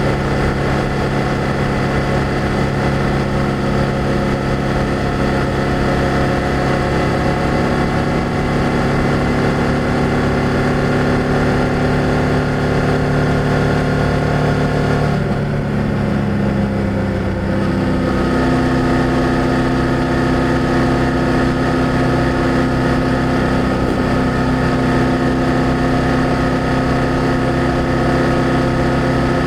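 BMW F800GS parallel-twin motorcycle engine and exhaust running steadily under way. About halfway through, the engine note falls off for a couple of seconds, then settles into a steady pitch again.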